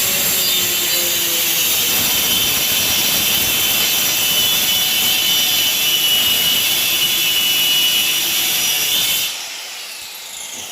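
Electric power saw cutting a plywood panel to size, running at a steady high whine. About nine seconds in the cut ends and the motor winds down.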